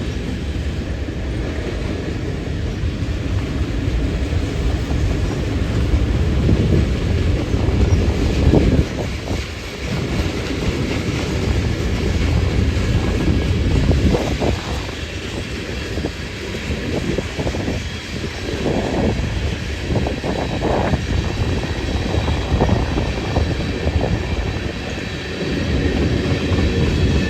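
Train rolling past on the rails: a steady, loud low rumble of wheels and cars with irregular clanks and clicks.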